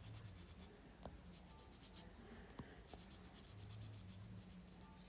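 Faint scratching on paper: quick back-and-forth strokes in several short runs, with a couple of faint ticks.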